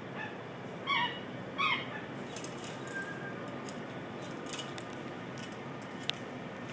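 A bird calling twice in short, slightly falling calls about a second in, over steady outdoor background noise, with a single sharp click near the end.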